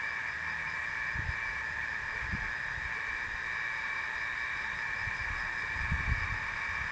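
Steady night-time insect chorus, an even high-pitched hiss, with a few brief low thumps, the strongest cluster near the end.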